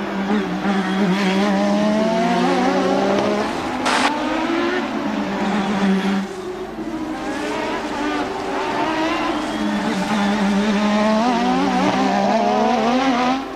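1988 Formula One cars racing past, their engines climbing and dropping in pitch through the gears. A sharp crack comes about four seconds in.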